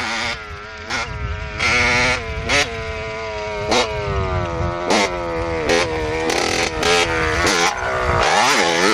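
Small motorbike engine running at varying revs, its pitch rising and falling as the throttle opens and closes.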